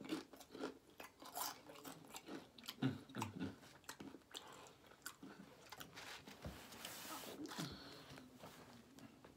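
Close-miked chewing of crunchy tortilla chips: many small, irregular crunches and mouth sounds.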